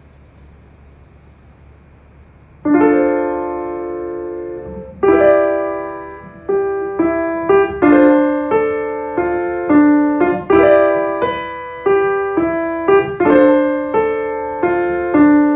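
Piano chords played on a keyboard, starting about two and a half seconds in after faint hiss. The first chord is held and left to fade, then chords are struck one after another in a repeating pattern, each ringing out.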